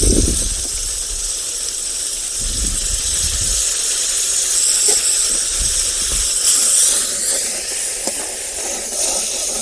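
Fire in a small charcoal tandoor hissing steadily, burning fiercely like a gas burner because the tandoor is very hot. A few low rumbles come and go underneath.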